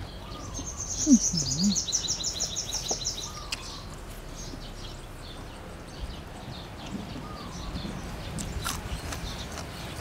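A bird sings a fast trill of high repeated notes for about two and a half seconds near the start, over close-up chewing and crunching of raw vegetables and shrimp. A short low hum comes about a second in.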